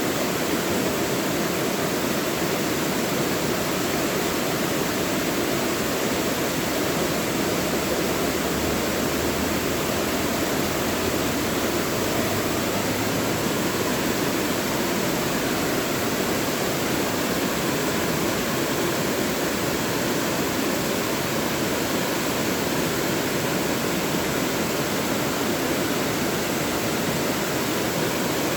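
Mountain valley stream rushing steadily over rocks, a constant full water noise.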